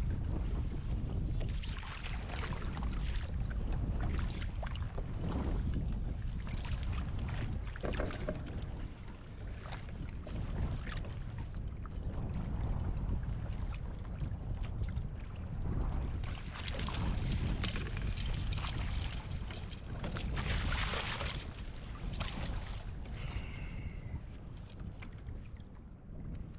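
Wind buffeting the microphone over waves splashing against a kayak's hull; the splashing swells and fades every few seconds. A brief thin tone sounds near the end.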